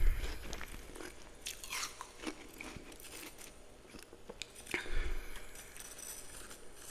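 Close-up chewing and crunching of a mouthful of frost, with scattered sharp crackles and a heavier crunch about five seconds in.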